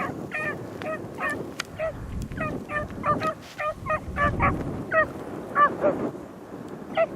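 Beagles baying on a rabbit's track: a quick run of short, high yelps, two or three a second, over gusty wind rumble on the microphone. The yelping stops about six seconds in, with one last yelp near the end.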